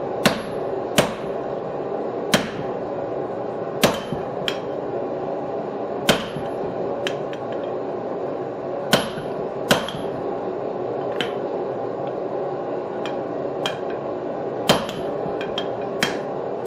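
Hammer blows on a makeshift flatter set on hot steel over the anvil: about a dozen sharp, ringing strikes at an uneven pace, roughly a second or more apart, over a steady background hum.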